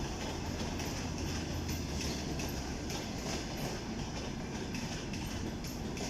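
Passenger train rolling past, a steady rumble of wheels on rail with irregular clicks as the wheels cross rail joints.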